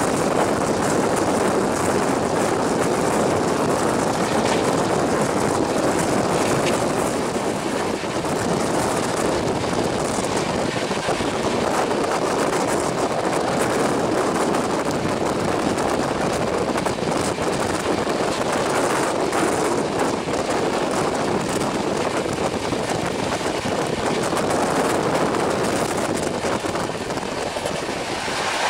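Express passenger train running at high speed, heard from an open coach door: a steady rush of wheel and track noise, with wind on the microphone.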